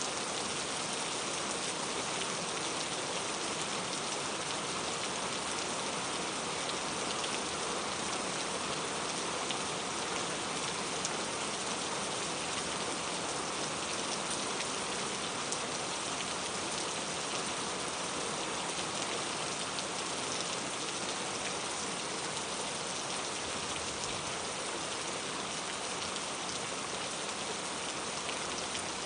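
Steady rain falling, a dense even patter of drops on a surface with faint individual drop ticks.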